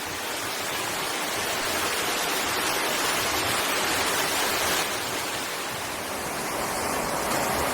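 Steady rushing of water from a small creek waterfall spilling over rock, running below its full flow.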